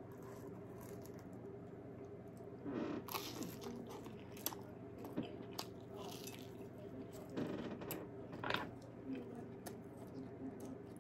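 A person biting into food held in the fingers and chewing it close to the microphone, with crisp crunching and wet mouth clicks in two clusters, about three seconds in and again around eight seconds in.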